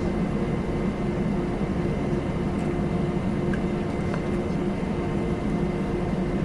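Airbus A320 cabin noise: a steady drone of the jet engines and cabin air with a constant hum, holding level with no rise in power.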